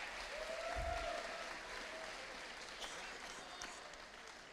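Audience applauding, fading away gradually, with faint voices in the crowd.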